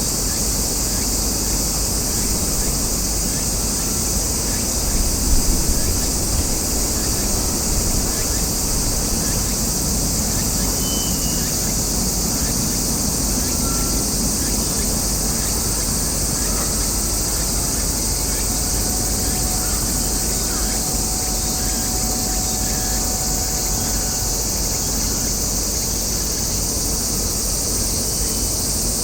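Steady, high-pitched insect chorus, with a low rumble of background noise beneath it.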